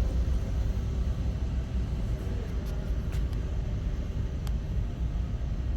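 Steady low rumble of a large indoor exhibition hall, with a few faint clicks.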